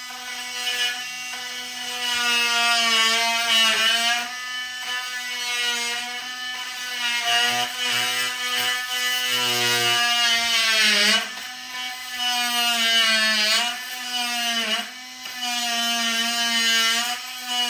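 Electric drill motor running with a steady whine, its pitch sagging briefly a few times as it loads up.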